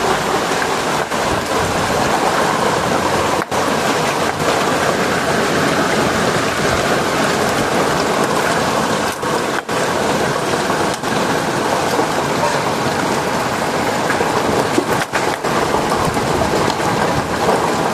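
Torrential storm rain, likely mixed with hail, pouring down in a loud, steady, dense hiss, with a few momentary dips.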